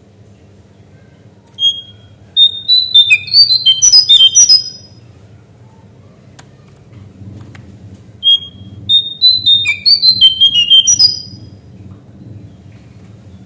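Songbird, the cingcoang coklat, singing two phrases of quick whistled notes jumping up and down in pitch, each about three seconds long, the second starting about halfway through. A faint low hum lies underneath.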